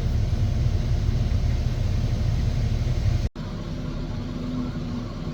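Cat 725C articulated haul truck's diesel engine running with a steady low rumble. About three seconds in, a sudden cut drops it to a quieter, steady engine hum with a faint constant tone.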